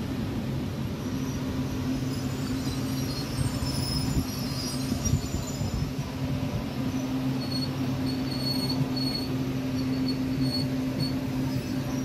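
Frecciarossa high-speed electric train rolling slowly along the platform with a steady low hum and rumble. Short high-pitched squeals come from the wheels and brakes from about three seconds in.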